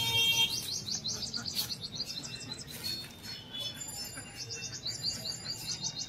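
Small birds chirping in quick runs of short falling notes, one run in the first half and another near the end, after a high steady call that fades just after the start.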